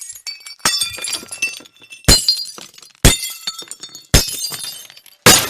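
Glass shattering: five separate smashes about a second apart, each a sharp crash followed by tinkling shards.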